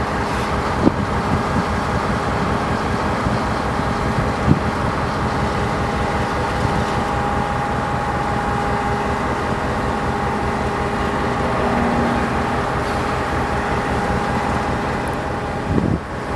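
EMD GP38 diesel locomotive's 16-cylinder two-stroke engine running steadily, a low rumble with a steady whine over it and a few sharp clicks.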